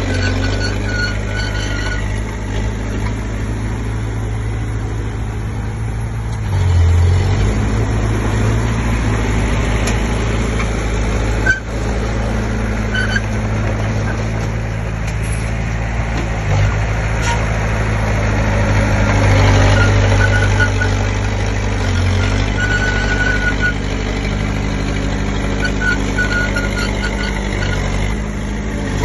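Komatsu D20P bulldozer's diesel engine running steadily while pushing soil, rising in level about seven seconds in and again around twenty seconds, with a single sharp knock about eleven seconds in.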